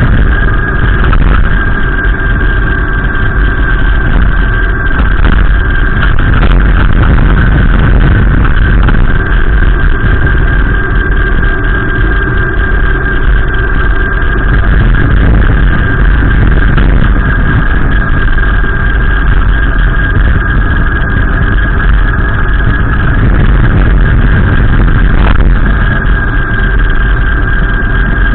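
Gusty wind buffeting the microphone: a loud, steady low rumble with a thin, steady high whistle running through it.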